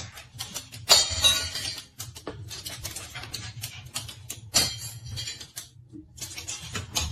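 Irregular clinking and clattering of hard objects, like dishes or small items being knocked about, over a low steady hum; the loudest clatter comes about a second in and another around the middle.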